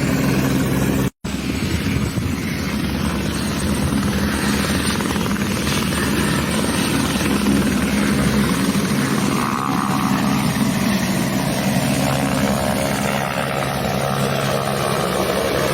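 Helicopter running steadily, its rotor and turbine sound continuous, with a brief total dropout in the audio about a second in.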